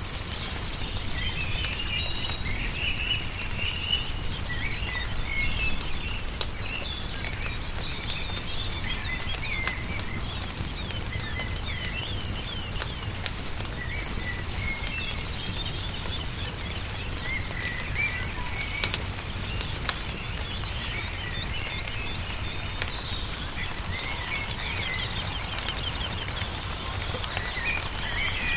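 Small songbirds chirping and trilling throughout over a crackling wood fire, with scattered sharp pops and a steady low rumble underneath.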